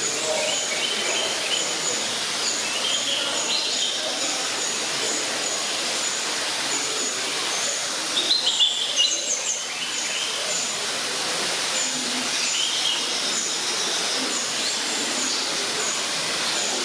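Small birds chirping in short, high bunches of notes every few seconds, loudest about halfway through, over a steady background of noise and a faint murmur of voices.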